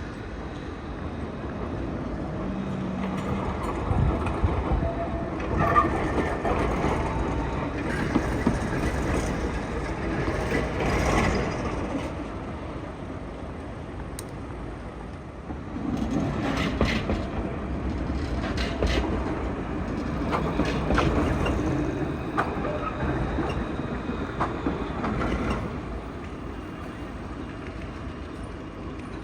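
A tram passing at a city tram and bus stop, its running noise and rail rumble swelling twice over steady street noise.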